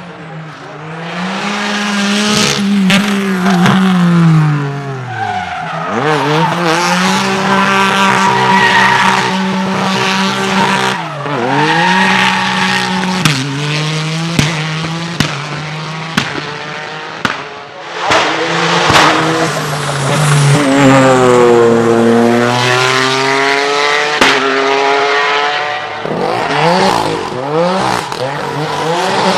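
Drift car engine held at high revs, its pitch dropping sharply and climbing back several times as the car is driven sideways, over continuous tyre squeal and with scattered sharp exhaust cracks.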